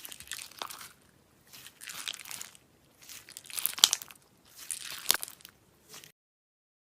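Slime being squeezed and worked in four crackly bursts with sharp pops, about one every second and a half. The sound cuts off suddenly about six seconds in.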